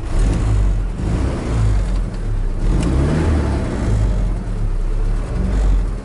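GAZelle van's engine starting and running with uneven revs, a loud low rumble that comes in suddenly at the start.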